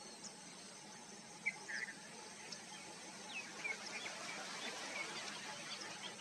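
Birds giving short, high chirps, a couple about a second and a half in and a scatter of quick falling notes in the middle, over a steady hiss of outdoor nature ambience.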